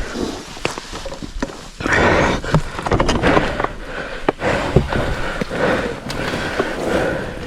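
Ride on a Kawasaki KLX300R dirt bike heard through an action camera's microphone: an uneven rush of wind and road noise that swells and fades, broken by many sharp knocks and rattles from the bike running over rough ground.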